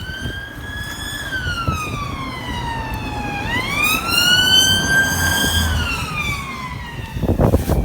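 Police car siren on a slow wail, sweeping up and down in pitch through about two full cycles. Some short knocks come near the end.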